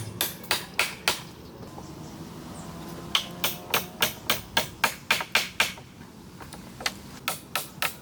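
Hammering: three runs of sharp, quick blows, about three to four a second, with short pauses between the runs.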